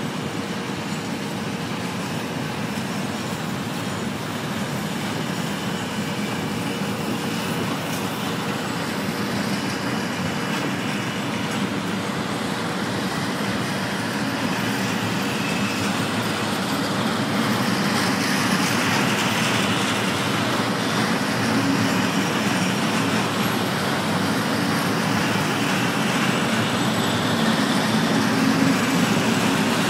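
Container freight train's loaded flat wagons rolling past on the rails, a steady rolling noise of wheels on track that grows gradually louder.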